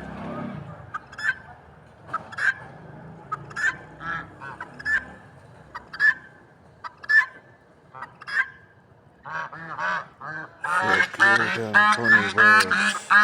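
Large waterfowl honking: single short honks spaced about a second apart, then from about nine seconds in several birds honk at once in a quick, dense chorus.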